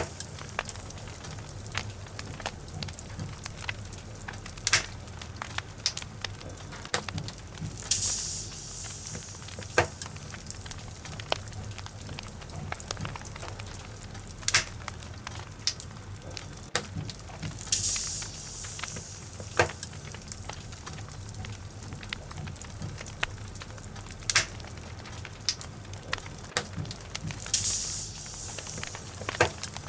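Wood logs burning in a fireplace: a steady low rumble of flame with irregular sharp crackles and pops, and a brief hissing swell about every ten seconds.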